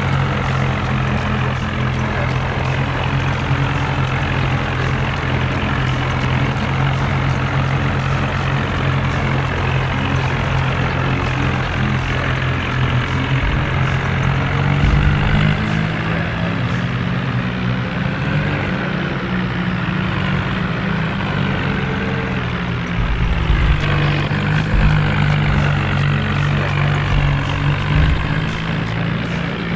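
Tractor diesel engine running steadily, its pitch shifting up and down as the revs change through the middle stretch.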